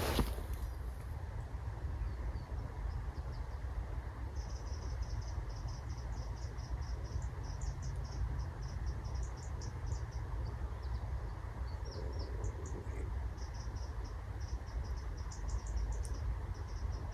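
High, thin chirps from a small bird, in quick runs of short pips with a few brief down-slurs, over a steady low rush of flowing river water or wind. A short knock sounds right at the start.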